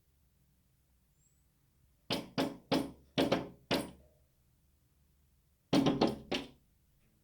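A bird striking window glass: a quick run of about five knocks, then after a pause of about two seconds about four more. It is a territorial male attacking its own reflection, which it takes for a rival.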